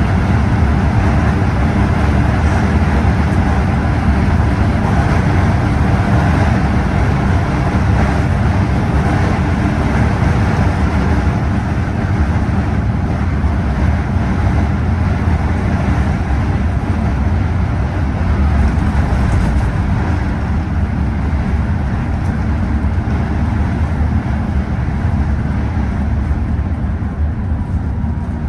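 Scania OmniExpress coach driving at a steady pace, its engine and road noise making an even low rumble.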